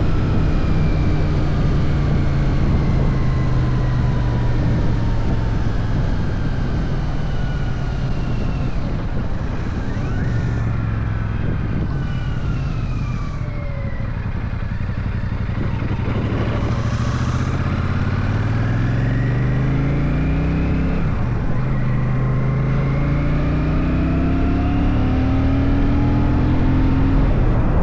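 Royal Enfield Shotgun 650's parallel-twin engine while riding. The revs fall steadily as the bike slows for about the first half, then climb twice with a drop between them as it accelerates up through a gear change, with steady wind rush throughout.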